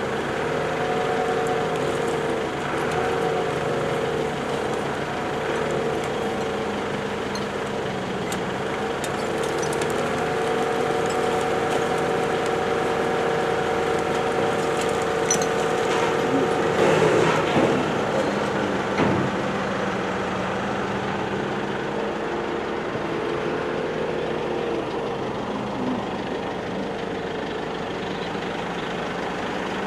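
An engine running steadily with a constant pitch, with a louder, rougher stretch a little past the middle.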